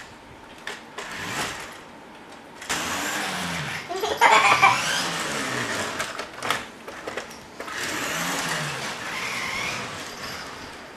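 Small electric motor whirring, its pitch sweeping up and down a few times, louder from about two and a half seconds in.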